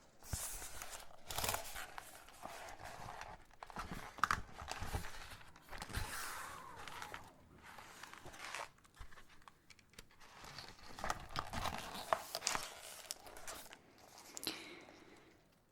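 Paper rustling and crinkling in a series of irregular bursts with short pauses between them.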